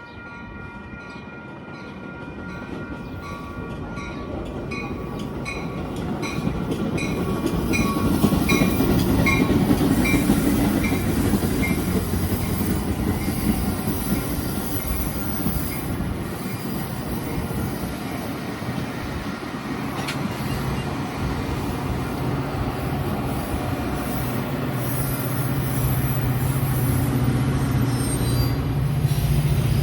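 A train passing, its rolling rail noise swelling to a peak about eight to ten seconds in and staying loud. A high ringing tone repeats about twice a second through the first dozen seconds, and a deep steady tone builds near the end.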